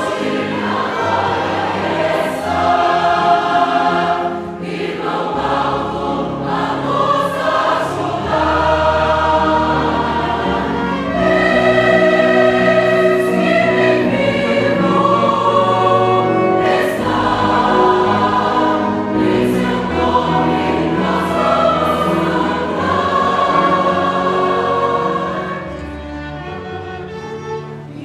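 A choir singing a Christian hymn with instrumental accompaniment, long held notes over a steady bass; the music dips a little just before the end.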